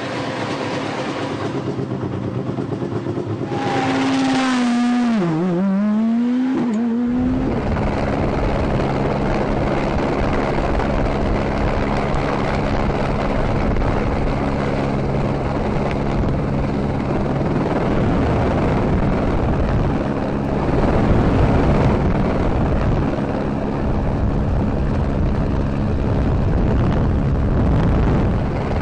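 Rally car engine revving, its pitch dipping and then rising again between about four and seven seconds in. After that comes a steady low drone of engine tones over a rushing noise for the rest of the time.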